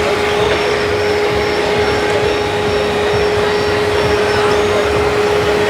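A small motor running with a steady, even whine at a constant pitch over a continuous noisy background.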